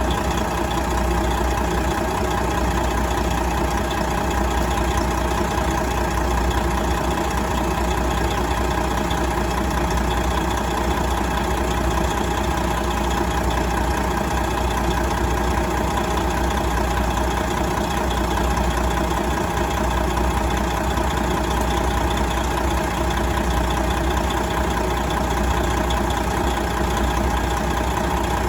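1999 Detroit Diesel Series 60 12.7-litre inline-six turbo diesel idling steadily, without revving.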